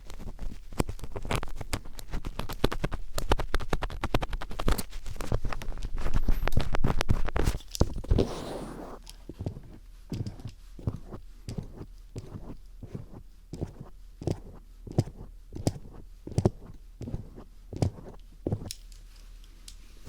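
Phillips screwdriver scraping and tapping close on the microphone in imitation of ear cleaning: dense scratching for the first half, then slower separate taps.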